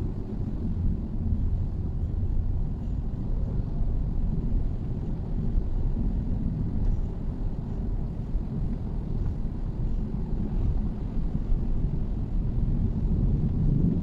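Mitsubishi Xpander driving along: a steady low rumble of road and engine noise.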